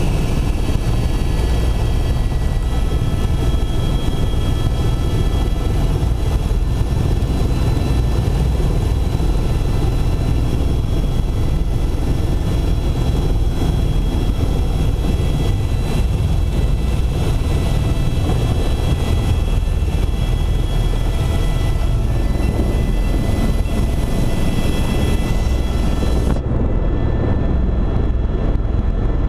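Helicopter running steadily, a loud unbroken low rumble with a few steady whining tones above it; about 26 seconds in the highest hiss and whine cut away abruptly while the rumble carries on.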